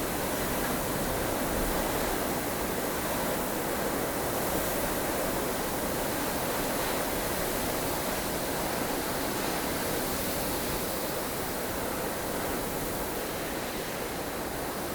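Strong wind of a blustery snowstorm, a steady rushing noise that swells and eases only slightly.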